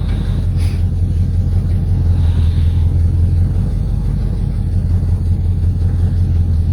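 An engine running steadily with a low, even hum and no change in pitch.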